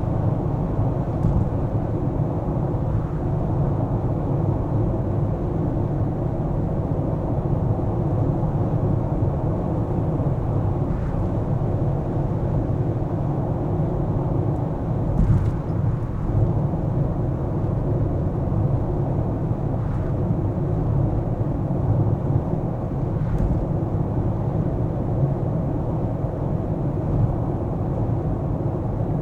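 Car driving through city traffic: a steady low rumble of engine and tyre noise, with a few faint brief ticks, the clearest about halfway through.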